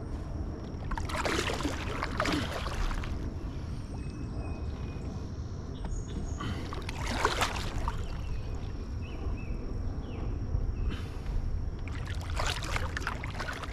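Water splashing around a kayak on a creek, in three bursts of a second or two, about five seconds apart, over a steady low rumble of wind on the microphone.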